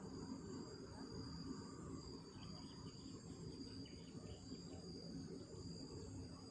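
Night insect chorus: crickets trilling steadily in a continuous high-pitched band, over a low rumbling noise.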